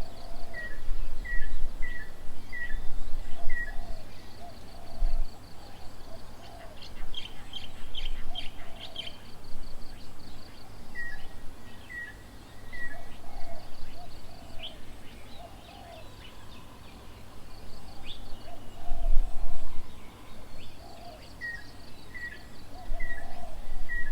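Wild birds calling around a garden bird table: a short clear note repeated four or five times in a row, heard three times over, among other chirps and lower calls. There is a low rumble underneath.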